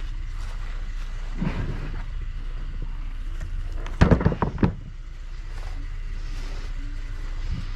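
Scrap metal being thrown onto a trailer: a knock, then a quick run of four or so loud clanging bangs about four seconds in, over the steady low hum of a running vehicle.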